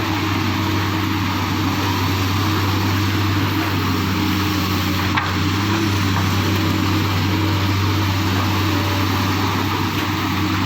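Excavator's diesel engine running steadily with a low hum, with one sharp knock about five seconds in.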